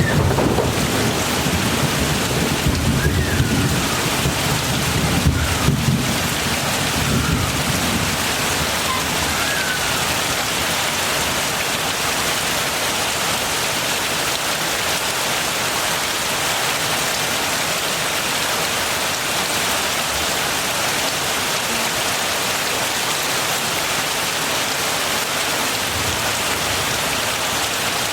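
Heavy rain falling steadily, with a low rumble of thunder for the first several seconds that fades away.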